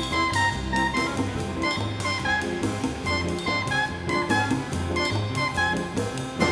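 Live Latin dance band playing an instrumental passage: saxophones and brass holding and repeating notes over a bass line and drums keeping a steady beat.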